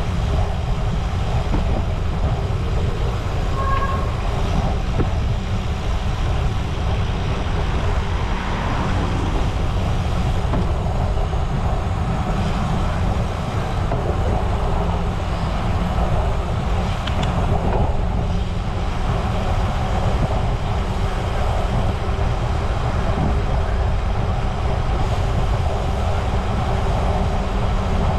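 Steady wind rushing over the microphone of a moving bicycle, with tyres rolling on pavement. A short high beep sounds about four seconds in.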